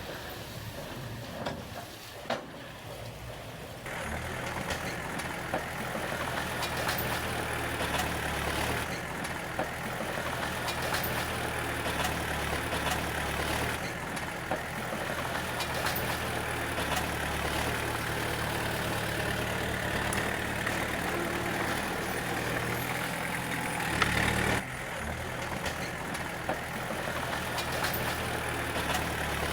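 D20 bulldozer's diesel engine running steadily, becoming louder about four seconds in, with scattered clicks and knocks over it. A brief louder burst comes late on, after which the engine settles back.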